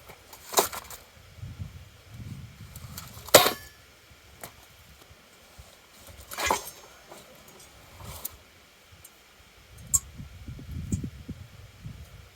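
Steel parts of a truck hitch game hoist clinking and knocking as they are handled while being unpacked: a few separate clanks, the loudest about three and a half seconds in.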